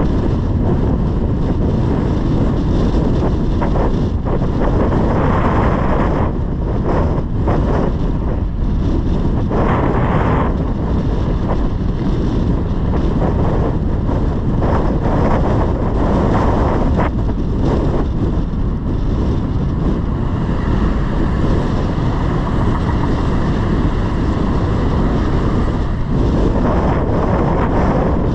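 Wind buffeting the microphone: a loud, steady low rumble that barely changes.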